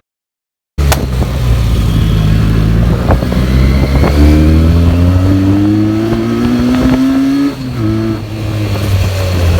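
Benelli TNT 300's 300 cc parallel-twin engine running through its stock exhaust with a deep, steady rumble. Its note climbs gradually as the bike accelerates, then drops sharply near the end.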